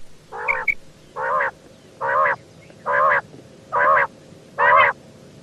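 Female common quail calling: two short high chirps, then five harsh, nasal call notes about a second apart, the first softer and the rest louder.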